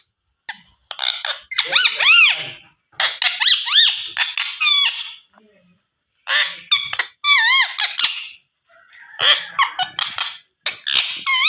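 Alexandrine parakeet giving a series of shrill, squeaky calls in about six separate bursts, the pitch wavering up and down within each.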